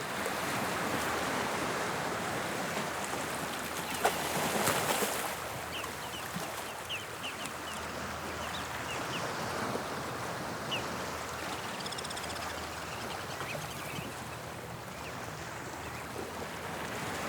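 Sea waves of the English Channel washing onto the shore in a steady rush, swelling louder about four seconds in as a wave breaks. Faint short high chirps or ticks come and go in the middle.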